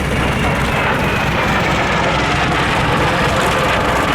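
Aircraft engine running, a steady unbroken rumble.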